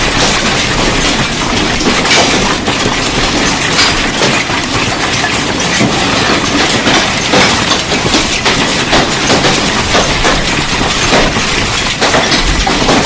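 Hail pelting hard surfaces: a loud, dense clatter of countless irregular impacts.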